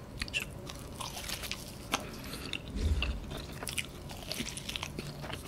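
A person chewing and biting into a folded slice of extra-cheese pizza close to the microphone: irregular soft, wet mouth clicks and smacks, with a dull low thump about three seconds in.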